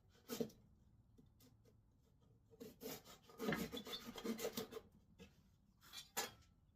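Something rubbing or scraping on wood in irregular strokes, busiest in the middle, with a few sharper knocks near the start and end.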